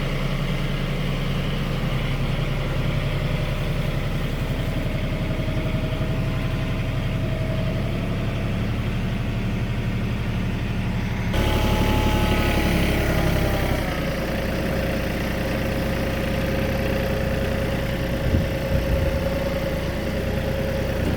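RK37 compact tractor's diesel engine running steadily. About eleven seconds in, the sound abruptly changes and gets louder, with a whine that falls and then holds as a steady tone; two or three short knocks come near the end.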